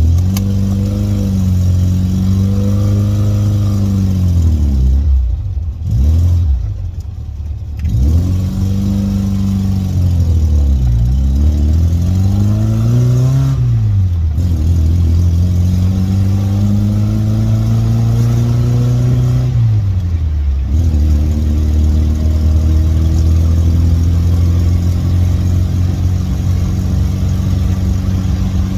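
1979 Triumph Spitfire 1500's four-cylinder engine pulling under load on a steep climb, revs rising and falling. The revs drop away briefly several times, about five to eight seconds in, near halfway and about two-thirds through, then hold steady near the end.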